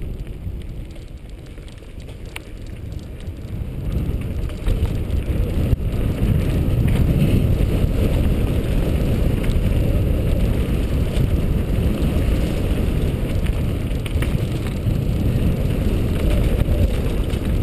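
Mountain bike riding along a dirt trail: wind buffeting the microphone over tyres rolling on the ground, with an occasional rattle or knock. It gets louder about four seconds in and stays loud.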